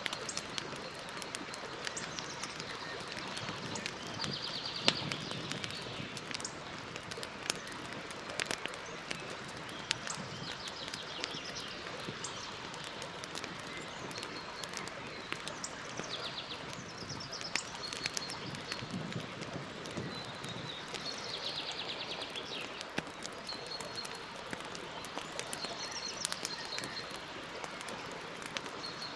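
Campfire crackling, with a steady hiss and frequent sharp pops, while birds sing short trilled phrases every few seconds.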